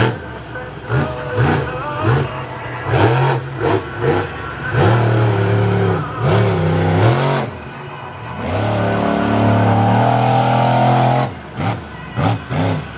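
Monster truck engine revving hard in quick short blips, about two a second, then held at high revs for a few seconds before dropping back to short blips near the end.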